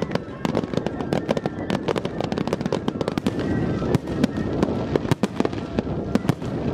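Aerial fireworks display: shells bursting one after another with dense crackling, many sharp bangs and cracks in quick succession over a constant low rumble.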